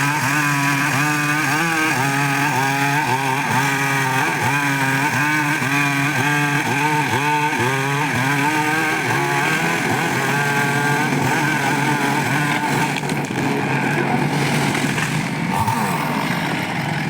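Chainsaw engine running hard under load, its pitch dipping and recovering again and again, about once or twice a second, then running more steadily in the second half.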